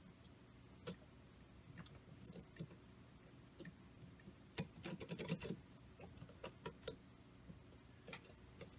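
Light clicks and clinks of small metal parts and hand tools being handled, with a quick cluster of clicks about halfway through.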